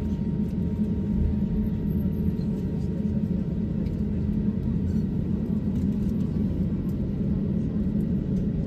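Steady low rumble of an Airbus A350-900's cabin noise heard from an economy seat, with a few faint steady tones above it.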